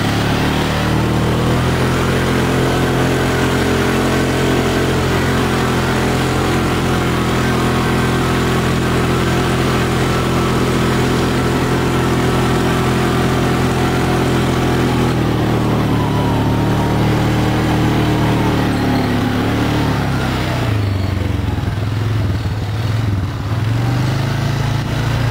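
Yamaha Enticer 340 snowmobile's two-stroke engine running under way at steady speed, then easing off and picking up again several times in the last ten seconds.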